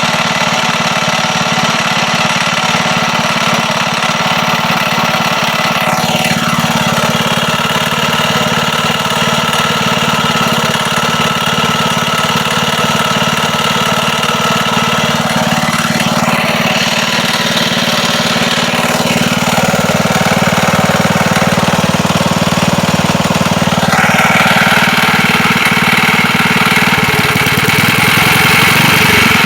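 Old air-cooled Wisconsin engine running steadily and noisily, with a rod knock from a worn connecting rod that has play at the crankshaft. It gets a little louder about two-thirds of the way through.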